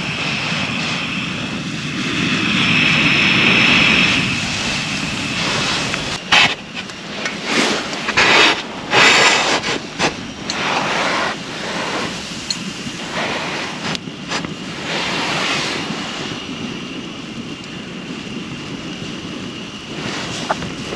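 Wind blowing across the microphone, a steady rushing hiss with stronger gusts and a cluster of louder rustling bursts about six to ten seconds in.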